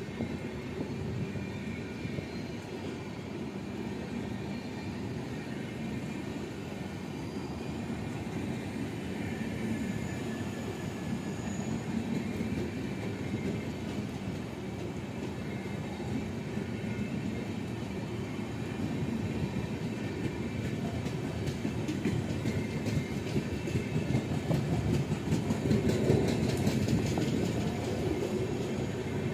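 Passenger coaches of an express train rolling past at speed: a steady rumble of wheels on rail. It gets louder in the last third with a rapid run of wheel clicks over the rail joints, loudest a few seconds before the end.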